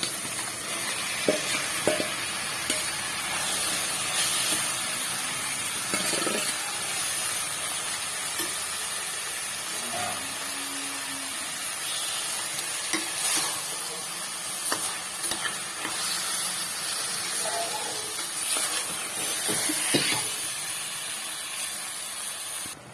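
Minced chicken frying in oil in a kadai with an onion-tomato masala, sizzling steadily as a spatula stirs it. The spatula scrapes and knocks against the pan now and then.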